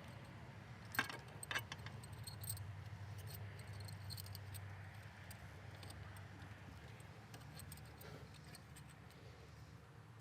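Light metallic clicking and clinking of hand tools and bolts while the bolts holding a CVT valve body are undone. Two sharper clinks come about a second in, then scattered faint ticks, over a steady low hum.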